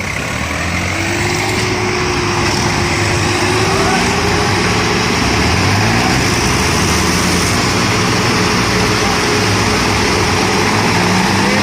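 Tractor engine running steadily, getting louder over the first few seconds and then holding level.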